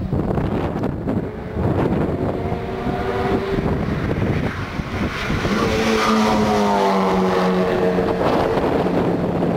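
Subaru WRX STi's turbocharged flat-four engine as the car approaches down the straight and passes by. Its note is loudest about six seconds in, then slides down in pitch as it goes past. Wind buffets the microphone throughout.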